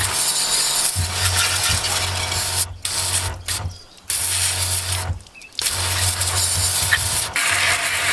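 SnoMaster cordless 12 V portable pressure washer spraying: a dense hiss of water over the low hum of its pump. The spray and hum cut out together briefly three times and start again, as the trigger is released and squeezed.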